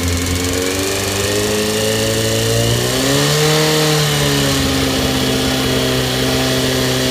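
Honda CBR919RR inline-four engine running, its revs rising briefly about three seconds in and falling back to idle, with the engine knock the owner is chasing.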